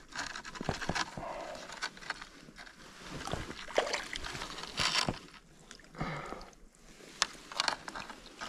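Water splashing and sloshing in a shallow river, uneven and coming in surges, with scattered sharp clicks and knocks.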